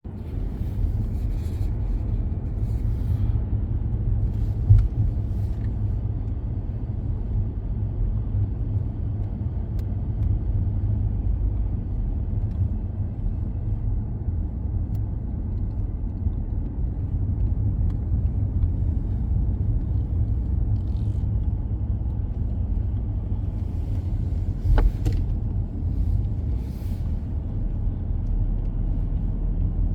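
Car driving along the road: a steady low rumble of tyres and engine, with a couple of brief knocks about five seconds in and again near the end.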